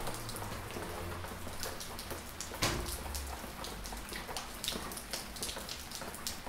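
Gentle rain falling steadily, a soft even hiss with scattered drops tapping irregularly on nearby surfaces; one louder drop lands about two and a half seconds in.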